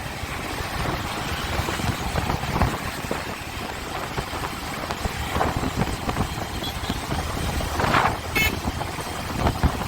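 Wind rushing over the microphone with a motorcycle engine running underneath while riding, and a brief louder sound about eight seconds in.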